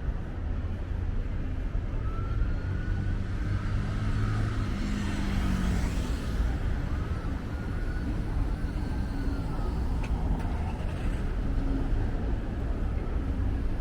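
Steady city road traffic: cars and other vehicles running along a busy avenue, with a brief rush of hiss about five seconds in as one passes.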